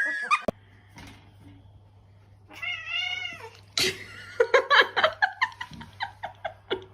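Domestic cat meowing and yowling: one drawn-out call about halfway through, then a string of short, rapid cries.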